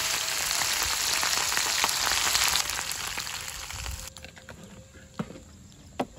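Fish deep-frying in hot oil in a wok over a wood fire: a loud, dense sizzling and crackling that cuts off about four seconds in, leaving a few faint clicks.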